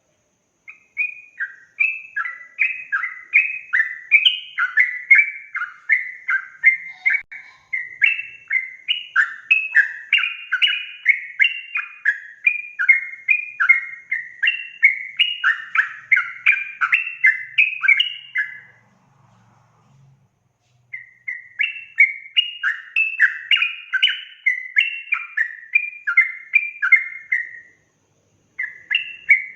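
Yellow-vented bulbul singing in long rapid runs of short bubbling chirps, the fast continuous 'ropel' song of a bird in full voice. The song breaks off twice, for about two seconds each time, before carrying on.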